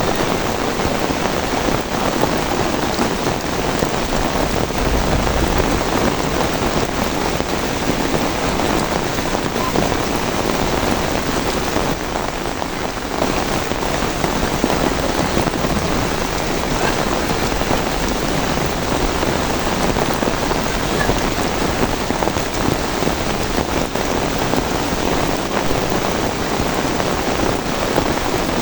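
Rain falling steadily, an even, unbroken wash of drops.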